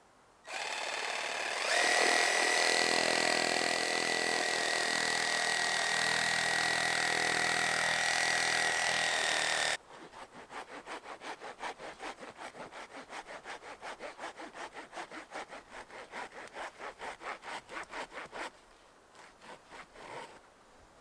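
Wood being sawn: a steady whirring cut with a high whine that stops abruptly, then quick back-and-forth saw strokes, about three or four a second, for about eight seconds.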